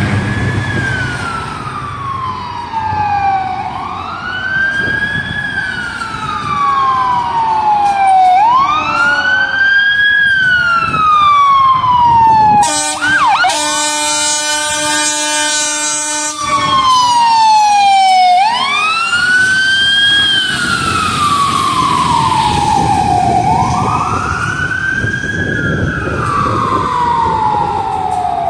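Fire engine siren wailing in a slow cycle, each sweep rising quickly and falling slowly, about every five seconds. About halfway through, a blast of several seconds of steady, blaring horn tones cuts across it, with the truck's engine rumbling underneath.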